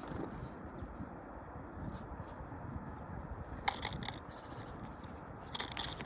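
Birds at a feeder, over steady low background noise. A few short high chirps come first. About two seconds in, a high call drops in pitch and runs into a quick trill. Two clusters of sharp taps come near the middle and at the end.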